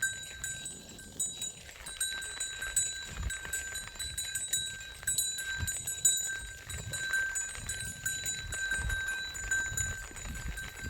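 Flock of sheep grazing, with scattered bleats from the animals over a low rumble.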